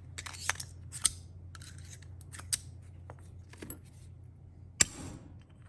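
Sharp metallic clicks and scrapes of hand tools and small metal engine parts being handled, about a dozen scattered through, the loudest about five seconds in.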